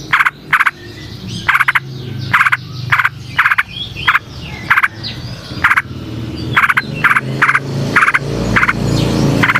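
Frogs calling: short, loud, rasping croaks, repeated in pairs and clusters. Faint bird song sits behind them, and a low rumble swells near the end.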